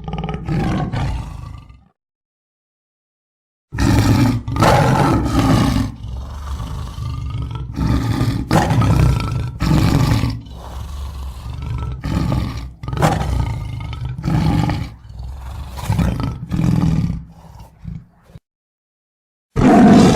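A big cat roaring and growling: one short roar, then a long string of loud roars after a pause of about two seconds, with a fresh roar starting near the end.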